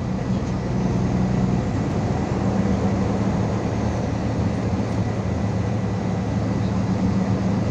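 MAZ 216.066 articulated city bus under way, its engine running steadily under road noise, heard from inside the cabin. A faint steady high whine sits over it.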